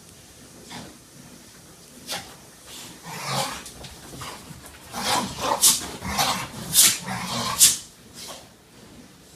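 Two pit bull puppies play-fighting, sneezing in a run of about eight short, sharp bursts, the loudest coming in the second half.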